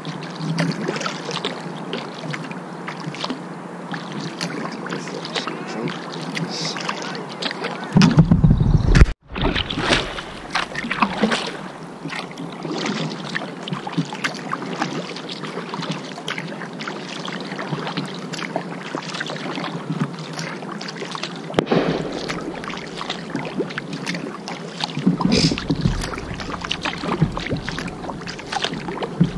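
Kayak paddling on a river: irregular paddle splashes and water sloshing against the hull. A loud low rumble about eight seconds in breaks off abruptly.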